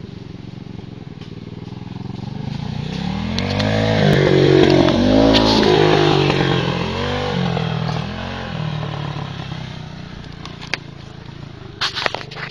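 Pit bike's small single-cylinder engine running and revving, its pitch rising and falling several times, loudest about four to six seconds in and then settling lower. A few sharp knocks near the end.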